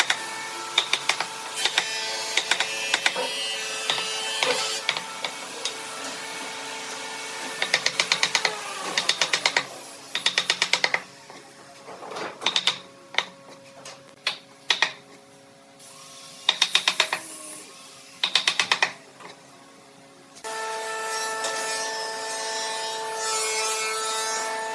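A workshop power tool's motor runs with a steady hum, stops about a third of the way in and starts again near the end. Single knocks and short bursts of rapid clicking come throughout.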